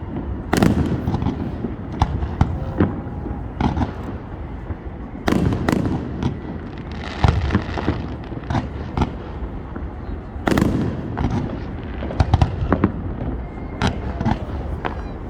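Fireworks going off in quick succession: sharp bangs and pops, with louder clusters about half a second in, around five seconds, around ten and a half seconds and near twelve seconds, and a stretch of crackling around seven seconds in.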